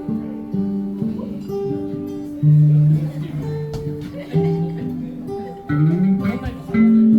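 Guitar music, an instrumental passage of a song: strummed chords under held melody notes, with one note sliding up about six seconds in.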